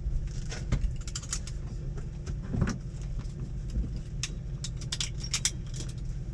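Scattered sharp clicks and light metallic rattles, with one louder knock a little over two and a half seconds in, over a steady low rumble.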